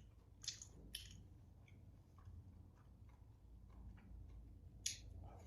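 Faint chewing of a mouthful of dumplings, with a few sharp little clicks: two about half a second apart near the start and one near the end.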